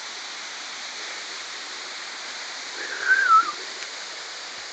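Waterfall rushing steadily. About three seconds in, a brief wavering whistle-like call rises over it.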